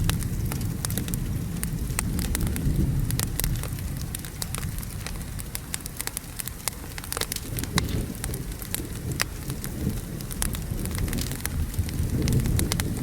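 Wood fire crackling with frequent sharp pops, over steady rain and a low thunder rumble that fades in the middle and swells again near the end.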